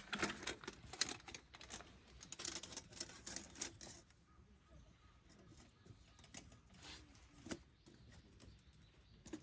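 Rustling and quick small clicks of gear or fabric being handled, dense for about the first four seconds, then only a few faint scattered ticks.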